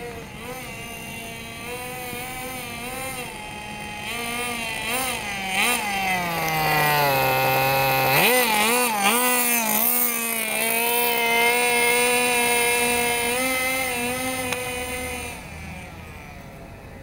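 Thunder Tiger Pro-Nitro 1:10 scale nitro glow engine running on a test run. Its pitch wavers with small throttle blips, sinks to a low idle, then revs up sharply about halfway through and holds a high, steady speed before dropping back near the end.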